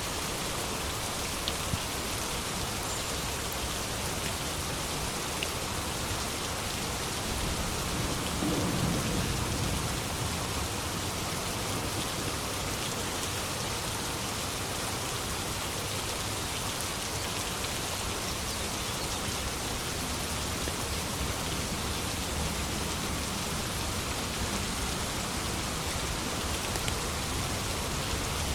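Steady, even rainfall, with a low rumble of distant thunder swelling briefly about eight seconds in.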